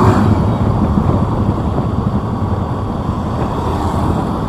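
Motorbike riding along a city street: engine rumble mixed with wind buffeting the microphone.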